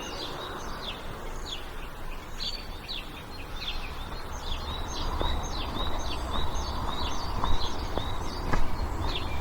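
Small birds chirping, with many short high notes repeating several times a second. Underneath is a low steady rumble, and a few sharp clicks come in the second half.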